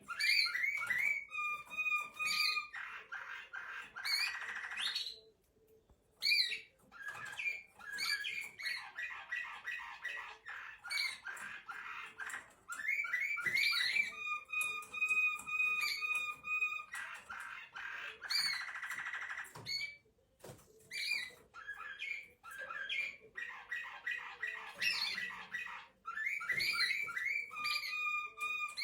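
Serbian Slavujar song canary singing its nightingale-like song: phrases of rapid trills and repeated notes alternating with long held whistles, with short pauses about five seconds in and again about twenty seconds in.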